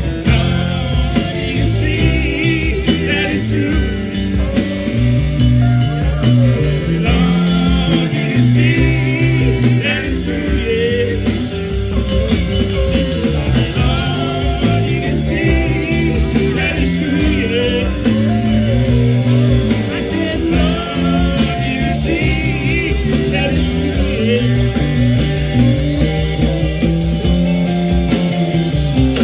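Rock band playing a bluesy number with guitar, a moving bass line and singing.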